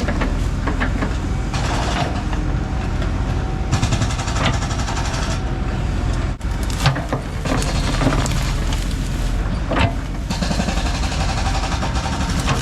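Heavy diesel equipment running steadily under load, with scattered knocks and clanks from the work.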